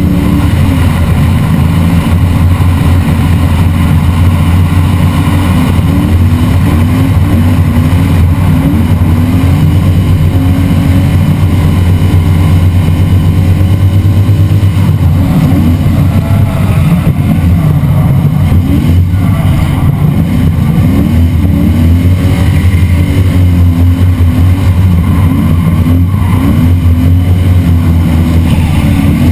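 Drift car's engine revving hard and rising and falling continuously through corners, recorded on a camera mounted outside the car, with a heavy wind rumble over the microphone.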